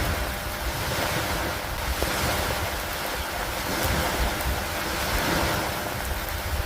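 Steady thunderstorm ambience: an even hiss of rain and wind that rises and falls gently every second or two, over a low rumble.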